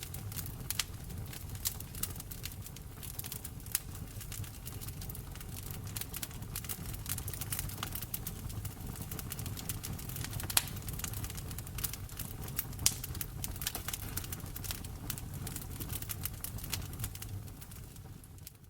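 Wood fire crackling in a fireplace: frequent, irregular sharp pops and snaps over a low rumble of the flames, fading out near the end.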